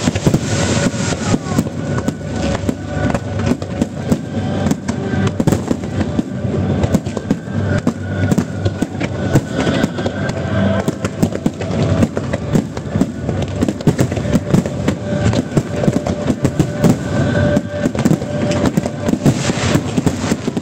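Grand finale of an aerial fireworks display: a continuous barrage of shell bursts and crackling, many bangs a second, with no pause.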